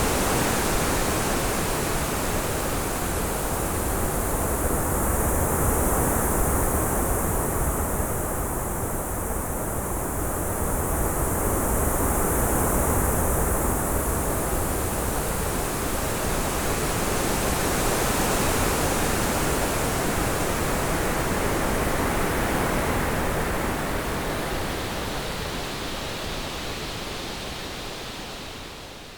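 Synthetic orange noise, 3D-panned to give a wind-like effect: a steady, full hiss whose tone shifts slowly as the upper middle dips and returns, fading out over the last few seconds.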